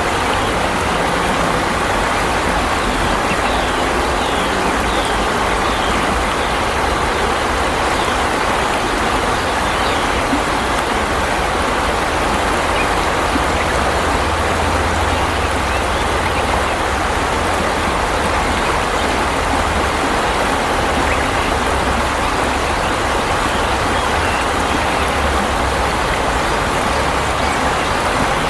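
Flowing water of a stream or river, a steady even rushing with no breaks.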